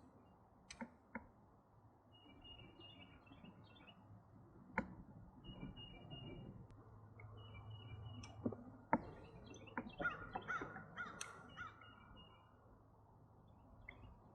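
Faint birds calling, short repeated calls throughout, with scattered sharp clicks and knocks, the loudest about five and nine seconds in.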